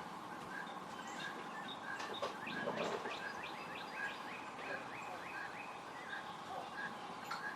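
A bird calling faintly: a short chirp repeated about twice a second, with a quick run of rapid chirping notes about two and a half seconds in.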